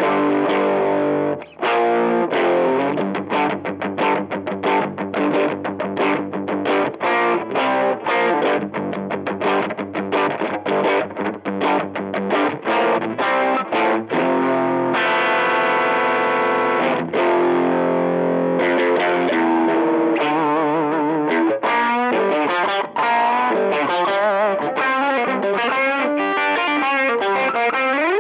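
Electric guitar played with overdrive through a TC Electronic MojoMojo overdrive pedal. A ringing chord is followed by fast, short chopped chords, then a held chord about halfway, and in the last third a lead line with bent notes and vibrato.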